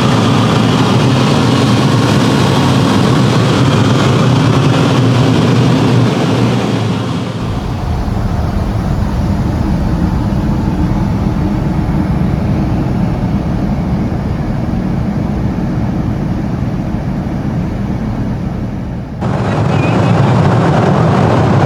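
Steady cabin roar of a Boeing 747-400 in cruise, the engine and airflow noise filling the cabin. Its tone shifts abruptly about seven seconds in and again a few seconds before the end.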